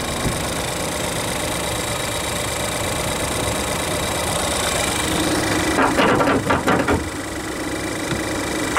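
2013 Ford Escape's engine idling steadily with the hood open. A short run of loud rustling knocks comes about six to seven seconds in.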